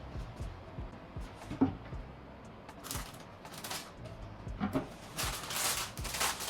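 Handling noise: scattered light clicks and knocks, with one sharp knock about one and a half seconds in, and short bursts of rustling, the longest near the end.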